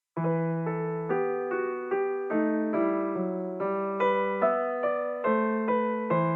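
Background music: a piano or electric piano playing an even run of notes, about two to three a second, over held bass notes. It starts abruptly out of silence just after the start.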